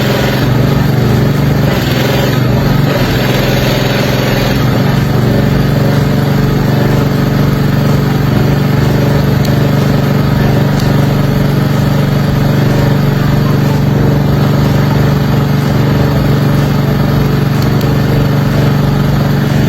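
An engine running steadily at a constant speed, its pitch shifting slightly about four seconds in, with a hissing noise alongside.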